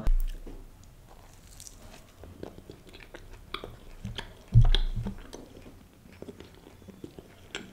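A person biting into and chewing a toasted chicken pepperoni toastie, with many small crunchy clicks. A short, louder low 'mm' comes about halfway through.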